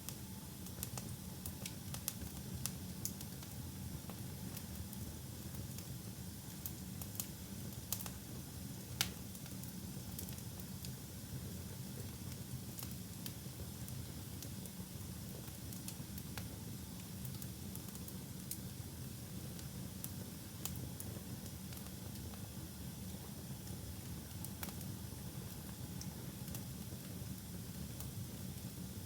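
Wood fire burning in a fireplace: a steady low rumble and hiss with scattered sharp crackles and pops. The pops come more often in the first ten seconds, and the loudest is about nine seconds in.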